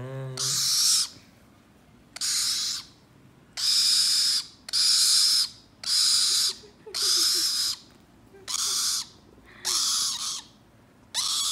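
A young bird calling over and over: about nine harsh, hissing screeches, each lasting under a second, about one a second.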